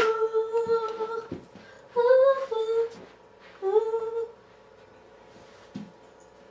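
A girl humming a wordless tune in three held notes, the first over a second long and the next two sliding up in pitch.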